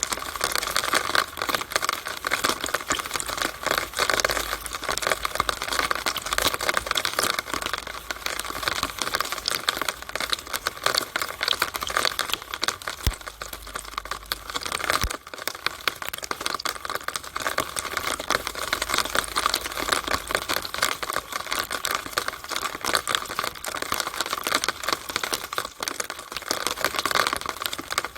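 Rainwater running down and dripping inside a downspout, a dense, even patter of drops and splashes that stays steady throughout.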